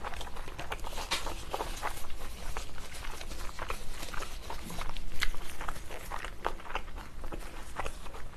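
A person chewing a mouthful of fried chicken with the mouth closed, close to the microphone: a run of small, irregular clicks and smacks.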